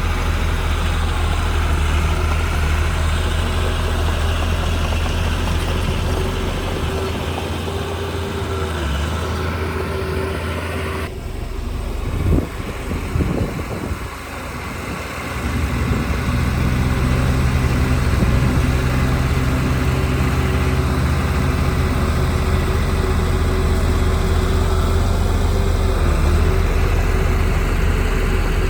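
Diesel engine of heavy earthmoving machinery running steadily. About eleven seconds in the sound changes abruptly and dips, with a few short knocks, then the engine picks back up and runs on.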